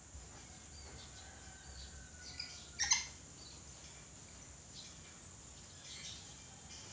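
Red lory calling: one short, loud, harsh call a little before the middle, with fainter short calls and chirps around it over a low steady hum.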